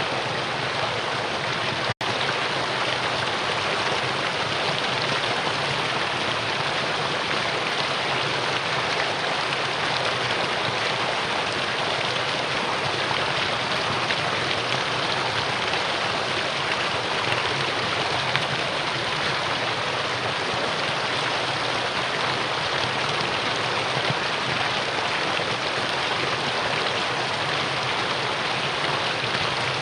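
Mountain valley stream flowing with a steady, even rush of water, broken by a split-second dropout about two seconds in.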